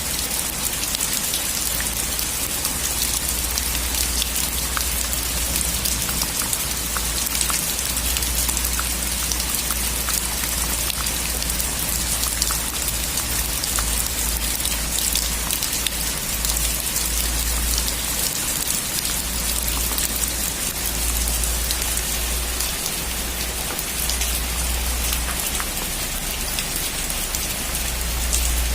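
Heavy rain falling steadily on a metal roof, a dense patter of individual drops over a continuous low rumble.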